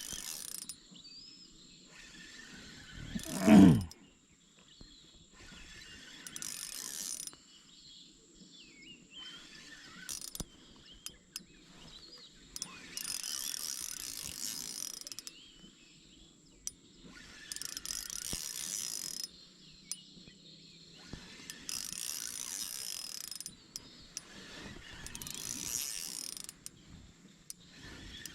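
Ryobi spinning reel being cranked in short turns, a ratcheting whir that starts and stops about seven times as line is wound in. About three and a half seconds in there is a single short, loud sound that falls quickly in pitch.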